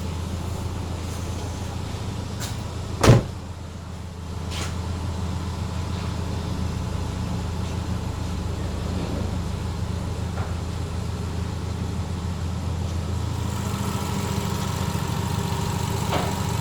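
Jeep Liberty engine idling steadily, with one sharp knock about three seconds in.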